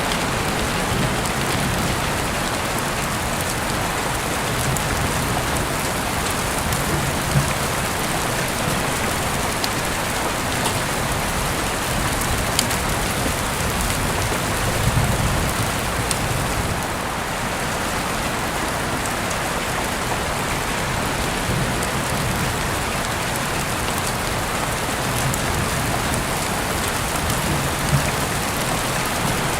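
Heavy rain falling steadily, heard through an open window, with a few sharper drip ticks standing out now and then.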